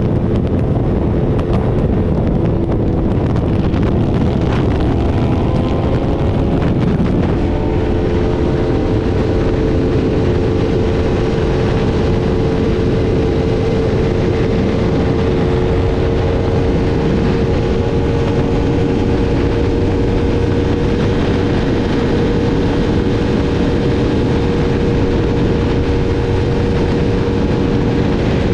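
Sport motorcycle engine running hard at speed under heavy wind noise on the microphone. There is a gear change about seven seconds in, after which the engine holds a steady pitch.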